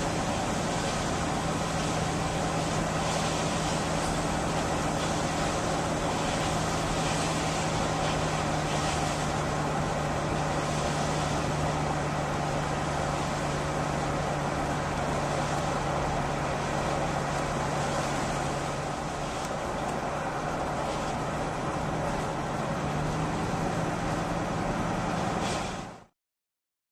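Steady machine drone with a constant low hum, dropping out suddenly near the end.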